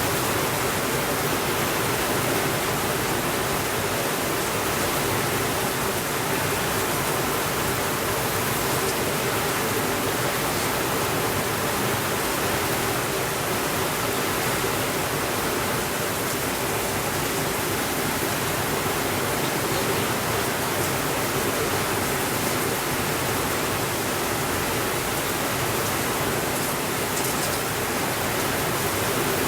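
Heavy rain falling on a window, a steady, even hiss with no thunder.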